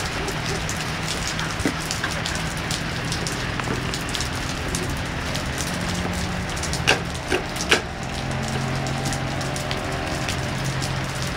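Steady rain falling on a hard floor, with three sharp smacks close together a little past the middle.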